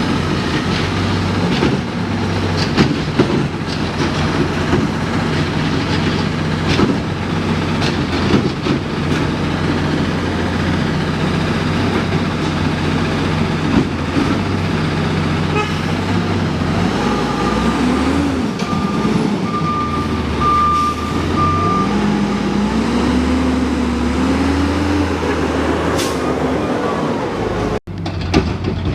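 Garbage truck's diesel engine running, with scattered knocks and clunks. Partway through, a backup alarm beeps repeatedly for a few seconds while the engine speeds up, its pitch rising and wavering.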